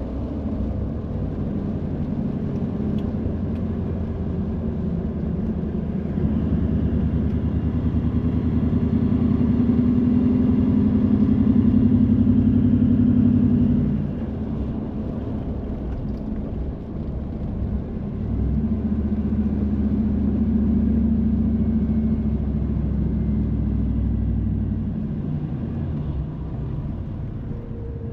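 Car driving on a wet road: steady engine and tyre noise. It builds as the car gathers speed, drops suddenly about halfway through as the driver eases off, then builds again.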